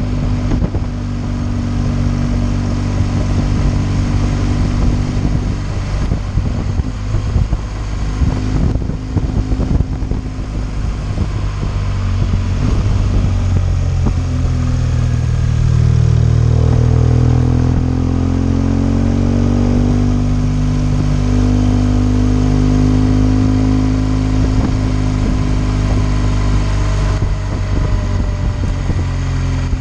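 BMW R 1200 GS boxer-twin engine pulling at road speed, with wind rushing over the microphone. Around the middle the engine note climbs twice as the bike accelerates through the gears, then holds steady.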